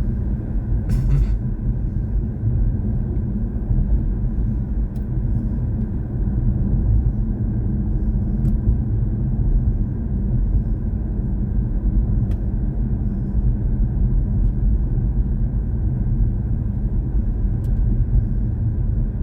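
Steady low rumble of road and tyre noise from the BMW i4 M50 electric car driving along, with no engine sound.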